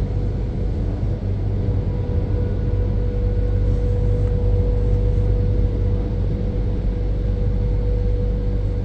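Car wash tunnel dryers running: the blower fans make a loud, steady rush of air with a low rumble and a steady whine from the fan motor.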